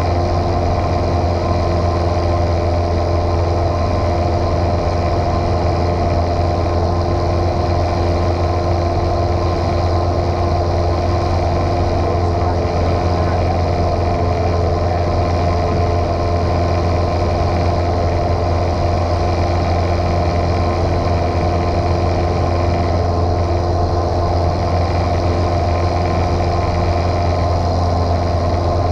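Single-engine piston airplane's engine and propeller running steadily at constant power, heard from inside the cockpit.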